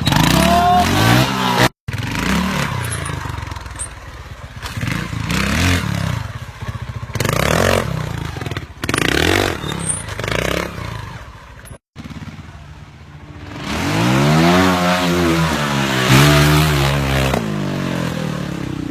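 Motorcycle engine revving again and again, its pitch climbing and falling with each twist of the throttle, loudest in the last few seconds. The sound cuts out for an instant twice.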